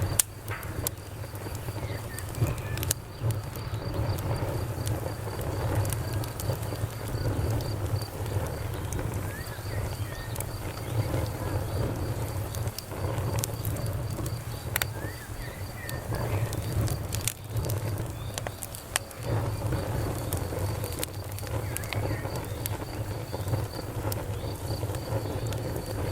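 Wood fire burning in a fireplace, crackling with scattered sharp pops over a steady low rumble of the flames.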